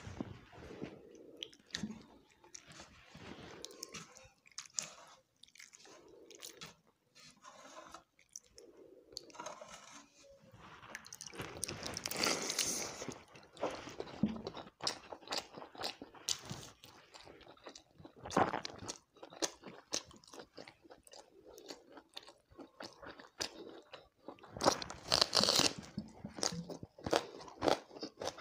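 Close-miked mukbang eating: wet chewing with crunchy clicks and smacks, as a mouthful of water rice and fried chicken is chewed. Twice, about halfway and near the end, there is a louder noisy stretch of squelching, as hands work the rice in its water in a metal bowl.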